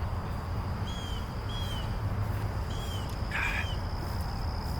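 Bird chirping outdoors: three short arched chirps, then a harsher call, over a steady high insect drone and a low rumble.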